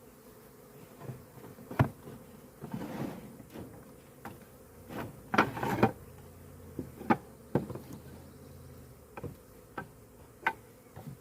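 Honeybees buzzing around an open hive box, with a string of sharp wooden knocks and clunks as hive frames are shifted into the box, the loudest bunch about halfway through.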